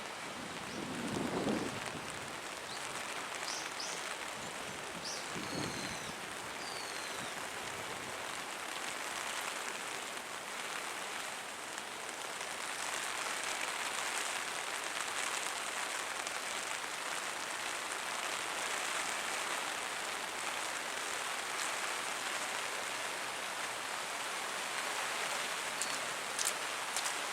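Steady rain falling, a dense even hiss of drops on surfaces that grows slightly louder about halfway through. A brief low rumble comes about a second in, and a few faint high chirps a few seconds in.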